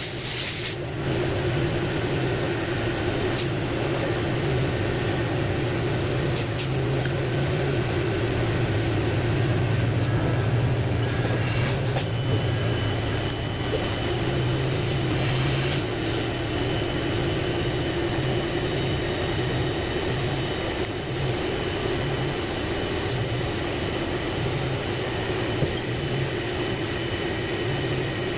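A steady mechanical hum with an even hiss, broken by a few faint clicks.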